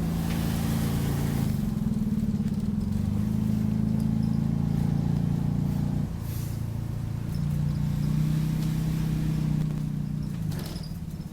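Optare Solo bus's diesel engine running, heard inside the passenger cabin, its note steady and then shifting in pitch a couple of times partway through. A brief hiss sounds over the first second or so.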